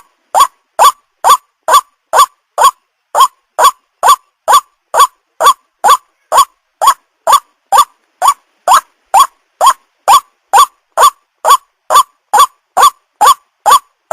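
White-breasted waterhen calling: a steady, monotonous run of short notes, about two a second, each sweeping quickly upward in pitch.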